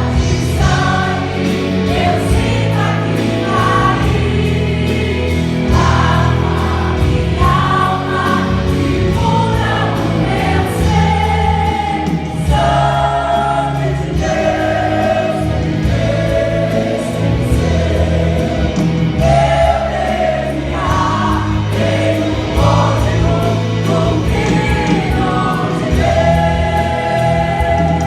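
Gospel song performed live: a choir of voices singing over a band of keyboard, drums, bass and guitars.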